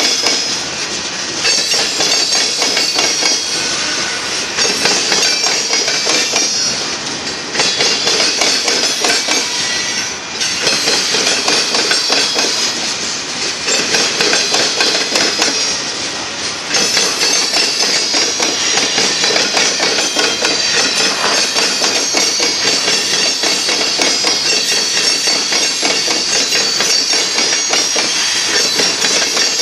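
Freight cars of a manifest train rolling past, steel wheels knocking and clacking over the rail joints continuously, with a high thin squeal of wheels on the rail over the top.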